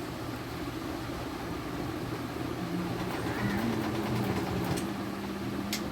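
A motor vehicle's engine running with a steady low hum, a second droning tone joining about two and a half seconds in and edging up in pitch.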